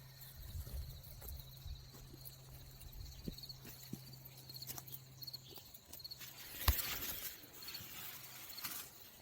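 Faint rustling and small knocks of hand digging in soft garden soil and sweet potato vines, with one sharp knock about two-thirds of the way through. A faint repeating high chirp and a steady low hum run underneath, the hum stopping near the end.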